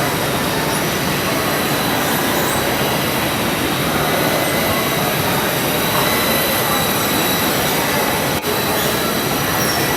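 Helicopter running steadily: a constant rushing noise with a high, even whine and its overtones, dipping briefly once about eight seconds in.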